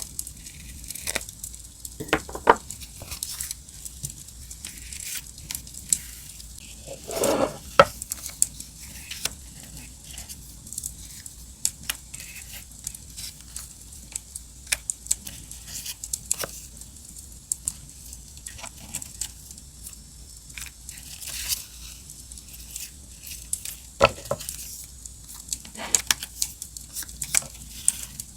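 Campfire crackling steadily under paper being handled close by: rustling, tearing and sticker paper being peeled. There is a longer rustle about a quarter of the way in and a few sharper paper noises near the end.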